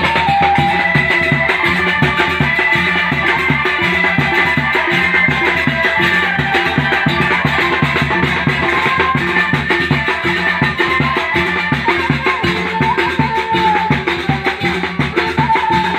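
Live ale-ale band music: a steady, evenly repeating drum beat with percussion, under a high, wavering melody line.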